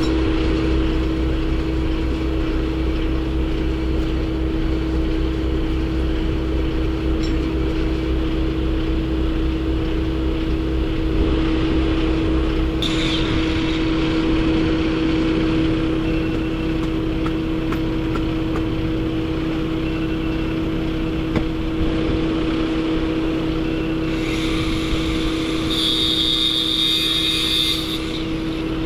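A motor vehicle running steadily with an even hum and a low rumble; the rumble eases off about halfway through, and a brief hiss comes in near the end.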